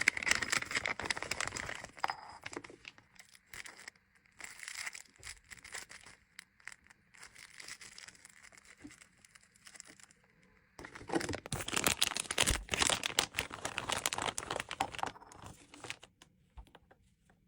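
Packaging crinkling and rustling as items are handled, in irregular bursts, loudest for several seconds in the second half before going quiet near the end.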